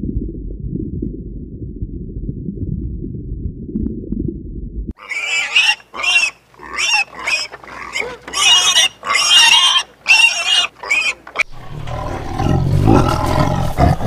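A low underwater rumble for about five seconds, then a pig squealing and grunting in a quick run of a dozen or so short high calls. A low growling rumble starts near the end.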